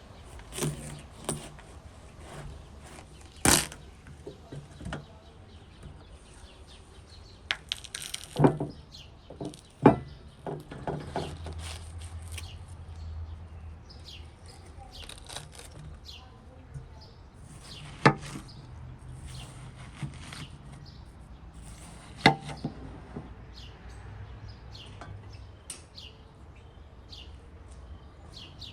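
Irregular knocks and clatter from objects being handled and set down, a few of them sharp and loud, with birds chirping faintly.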